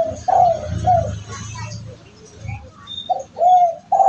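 Spotted dove (derkuku) cooing: a quick run of short arched coos, a pause of about a second and a half, then a second run beginning near the end. A low rumble sits under the first run.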